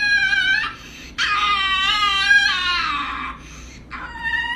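A cat yowling in long, drawn-out, wavering calls: one ends under a second in, a second runs about two seconds, and a third begins near the end.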